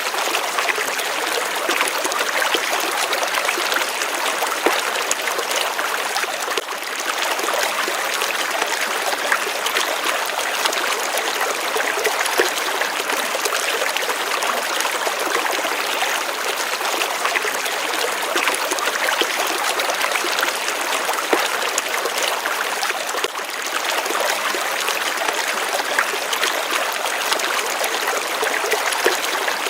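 Gently running water flowing steadily, an even continuous rush and trickle.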